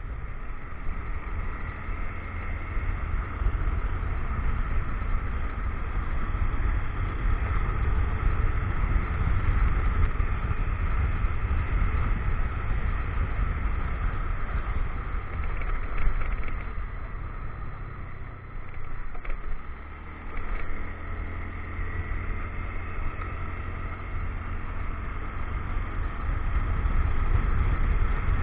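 Motorcycle riding on the road: the engine running with a steady low rumble of wind on the action-camera microphone. The noise eases briefly about two-thirds of the way through, then picks up again.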